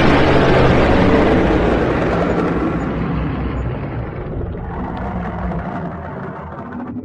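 Dragon sound effect: a loud, rough rumble with a low growling tone underneath that slowly fades over several seconds.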